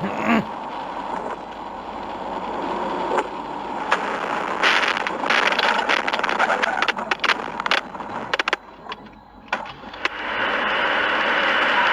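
Rushing road and tyre noise from a moving vehicle, with a run of sharp clattering knocks and scrapes about halfway through.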